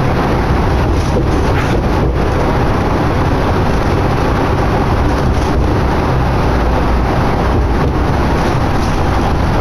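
Cabin noise of a 2011 New Flyer D60LFR articulated diesel bus under way: a steady, loud low engine drone mixed with road and wind noise.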